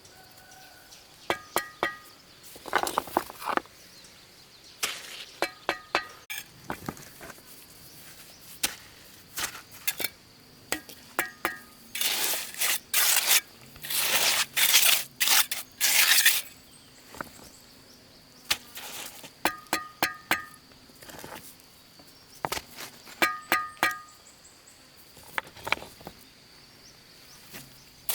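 Stones clinking and knocking together as they are handled and stacked, some strikes ringing briefly, in quick groups of three or four. Between about twelve and sixteen seconds in come several longer rough scraping or rustling noises.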